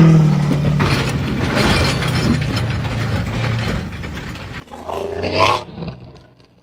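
Machinery running with a steady low hum and rattling noise, dying away about four and a half seconds in, then a brief cry near the end.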